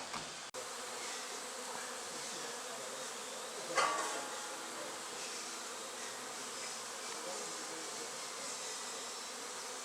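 Honey bee colony buzzing steadily as its nest is opened up, with one short knock about four seconds in.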